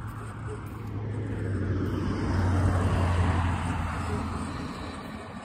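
Newly fitted small gasoline clone engine running on its first run. Its revs rise over about two seconds and then ease back.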